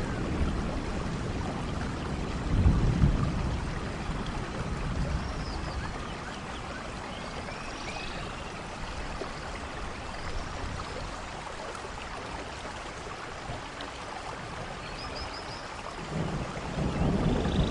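Steady rain with thunder: a low rumble about three seconds in, then a stretch of rain alone, and thunder building again near the end. A few faint high chirps sound over the rain.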